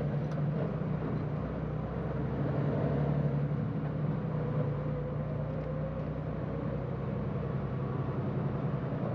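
Steady low hum of a semi truck's diesel engine and drivetrain, heard from inside the cab while it runs.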